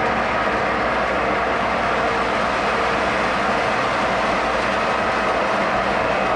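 Model train running steadily along the layout's track: an even rolling rumble of wheels on rails with a faint steady motor hum.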